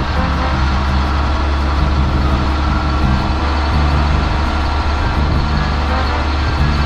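LMTV expedition truck's diesel engine running with a steady low drone.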